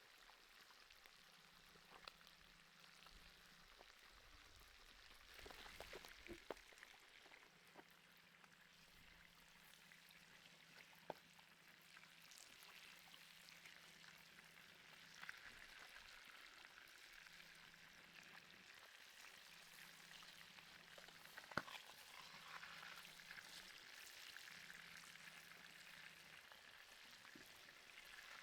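Faint sizzling of beef neck steak grilling over hot charcoal, with a few sharp pops and crackles, the loudest a little past two-thirds of the way through.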